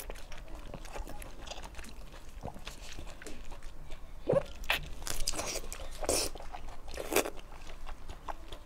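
Close-miked biting and chewing of soft braised meat, with many small wet mouth clicks. A few louder chews come between about four and seven seconds in.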